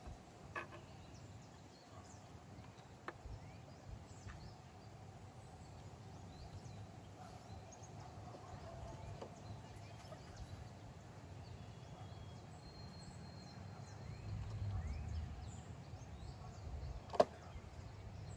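Faint outdoor ambience: a low, steady wind rumble with a few faint, distant bird chirps, and one sharp click near the end.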